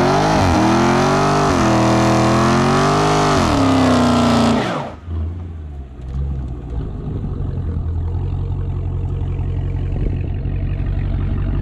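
Dodge Challenger SRT Hellcat's supercharged 6.2-litre Hemi V8, with its mid-mufflers deleted, revving up and down through the exhaust; about five seconds in the revs fall away and it settles to a low, steady idle.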